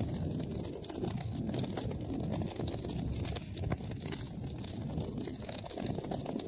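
Wood fire burning, with many small crackles and pops over a steady low rushing noise.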